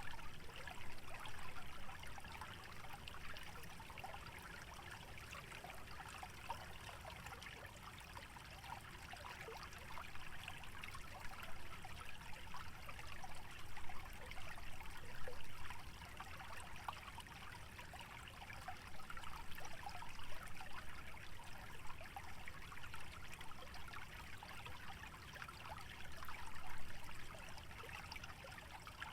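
A small stream trickling and burbling over shallows, a steady babble with small splashes that swells a little now and then. A low rumble underneath.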